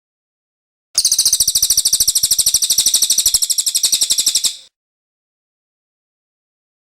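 Cililin songbird singing one rapid, high trill of about three and a half seconds, starting about a second in and stopping abruptly.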